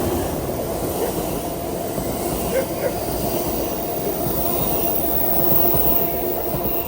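A train running past on the track, a steady loud rumble of wheels on rail with faint thin tones over it.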